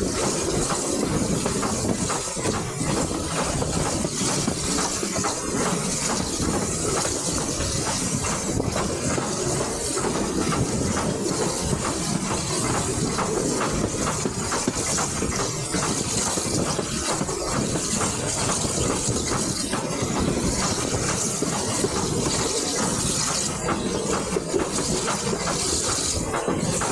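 Passenger train carriage running steadily along the line, heard from an open window: a continuous rumble of wheels on the rails mixed with hissing rushing air.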